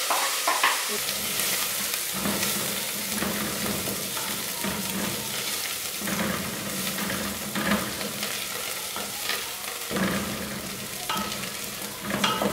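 Chopped coriander and fried onions sizzling in hot oil in a metal pot while a wooden spoon stirs and scrapes them round the pot.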